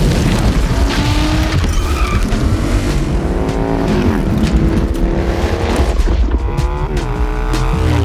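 Motorcycle engine accelerating hard through the gears, its pitch climbing and dropping back at each shift, about four seconds in and again near the end.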